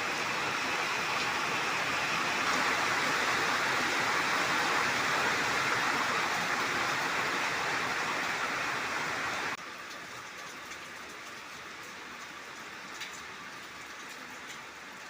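Summer rain falling steadily as an even hiss. About nine and a half seconds in it drops abruptly to a quieter, lighter patter with scattered drips.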